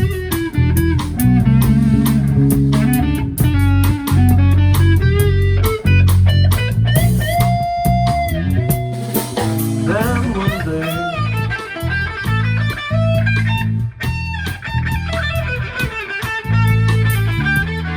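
Instrumental break in a song: a lead guitar plays a melody over bass and drums, with one long held note near the middle.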